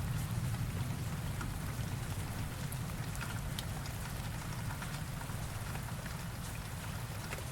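Steady rain falling, with scattered drop ticks and the low tail of a thunder rumble dying away over the first few seconds.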